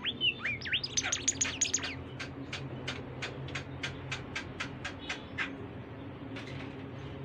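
The songbird known locally as bimoli singing. It gives a few slurred whistles, then a quick jumble of high notes, then a run of about a dozen sharp, evenly spaced notes, about three a second, which stops about five and a half seconds in.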